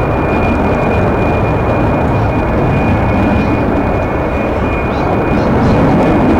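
Jet airliner's engines running loud and steady: a broad rumble with a thin high whine held above it.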